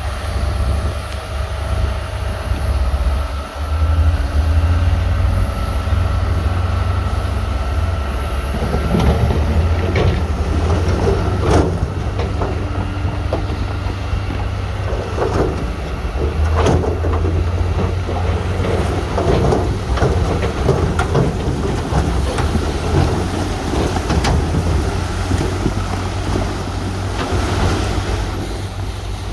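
Heavy diesel earthmoving machinery running with a steady, deep engine rumble. From about a third of the way in there are repeated sharp knocks and clanks.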